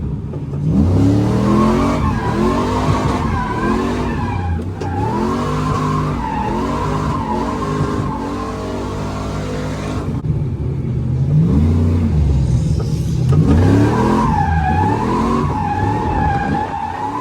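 Drift car's engine revving up and down over and over while its tyres squeal with a wavering pitch as the car slides, heard from inside the cabin. The tyre squeal stops for a few seconds past the middle while the engine keeps revving, then returns.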